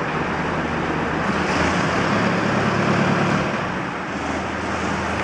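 Steady machinery noise with a low hum, swelling briefly about two seconds in and then settling back.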